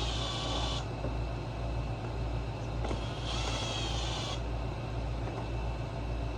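A cordless power driver spins out two screws in two whining runs of about a second each, one right at the start and one a little past the middle. A steady low hum runs underneath.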